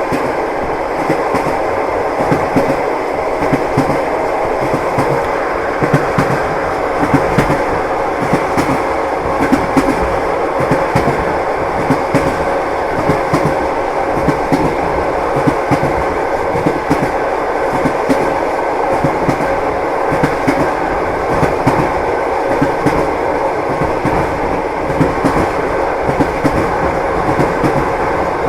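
Passenger train running at steady speed: a continuous rumble with the wheels knocking in clickety-clack over the rail joints, and a faint steady hum underneath.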